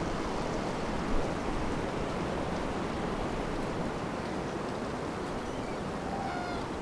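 Strong wind blowing steadily, an even rushing noise.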